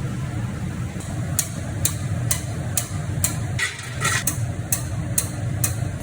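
Sharp taps or clicks, about two a second, over a steady low rumble.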